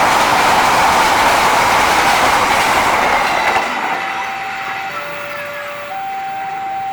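Train passing at speed, a loud rush of wheels on rail that fades away about three and a half seconds in. Then a level crossing warning alarm sounds two alternating tones, high and low, switching about once a second.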